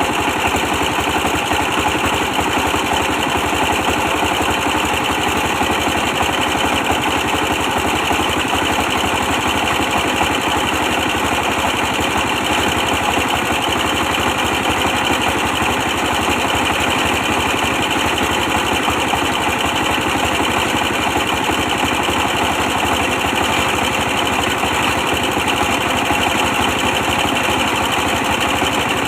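A 24 hp diesel engine driving a brick press, running steadily at an unchanging speed with no pauses.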